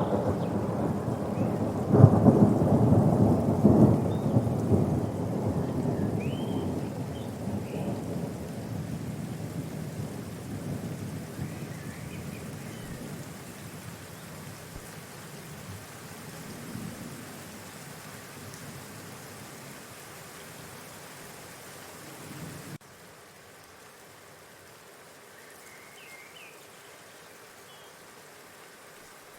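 Thunder rolling with rain: a loud peal about two seconds in that rumbles away slowly over some twenty seconds. The rumble then cuts off abruptly, leaving a steady rain hiss with a few faint bird chirps.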